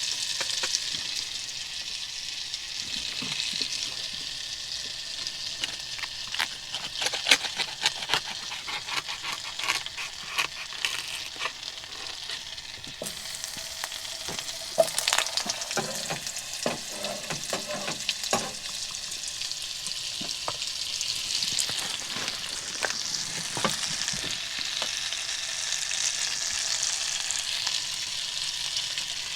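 Food sizzling in a frying pan, with a run of sharp clicks and scrapes of a utensil stirring it in the middle stretch.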